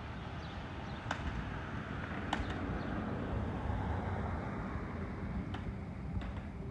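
Outdoor ambience: a steady low rumble that swells slightly in the middle, with a few sharp clicks and several short, high falling chirps.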